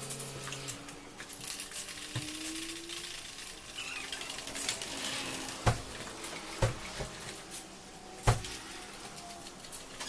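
Metal hand tools and parts clinking and knocking during engine repair work, with no engine running. Three sharper knocks come a little past halfway and near the end.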